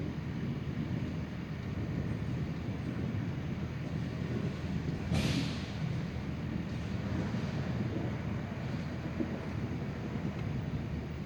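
Thunderstorm noise: a steady low rumble of thunder and wind, with one brief sharp crack about five seconds in.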